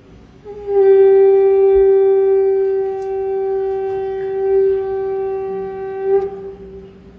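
A wind instrument holding one long, steady note for about six seconds. It starts about half a second in and stops near the end.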